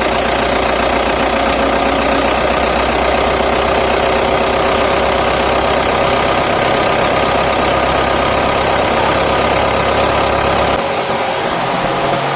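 Vehicle engine running steadily at idle, a low rumble under a mid-pitched drone; the deep rumble drops away about eleven seconds in.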